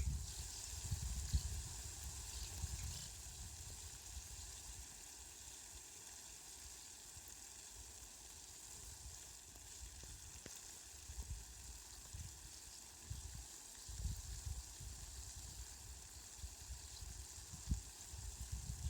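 Rain falling steadily with a fine, even hiss, under low rumbles that swell and fade, strongest in the first few seconds and again near the end.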